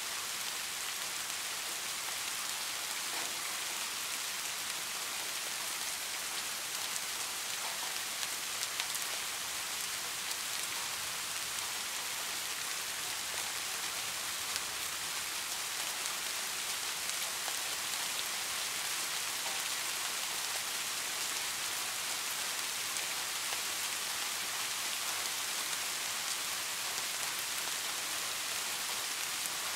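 Steady rain falling, an even hiss with a few sharper drop ticks standing out now and then.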